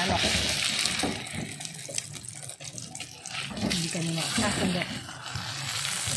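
Oil sizzling and spitting around a corned beef omelette frying in a metal wok, with a metal spatula scraping under it to loosen it for flipping.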